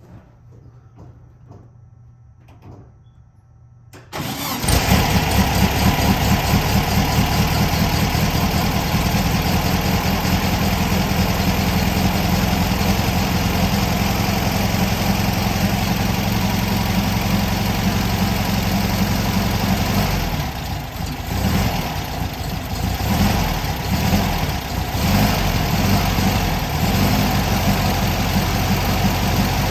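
1967 Sundial's engine catching on a cold start about four seconds in, after a few faint knocks, then running loud and steady at a fast idle. Its speed dips and surges for a few seconds past the middle before settling again.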